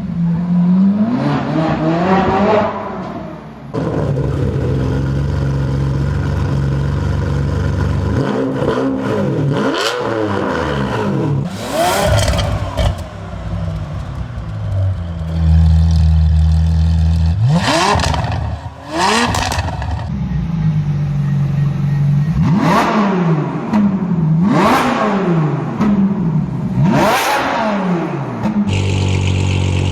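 Ferrari engine with a straight-pipe exhaust idling and being revved over and over with sharp throttle blips, each rev climbing fast and dropping straight back to idle, several in quick succession near the end.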